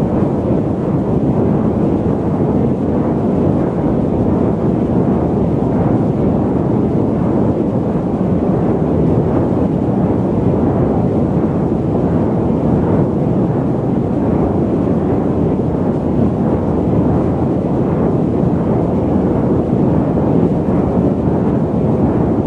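Steady low rumble of a jet airliner's engines and airflow, as heard inside the cabin in cruise, even and unchanging.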